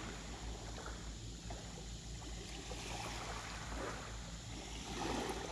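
Small sea waves washing softly onto the beach, a steady hiss of water that swells a little near the end.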